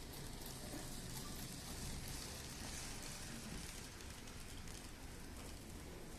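Model train running along the layout track, a steady faint rattling hiss.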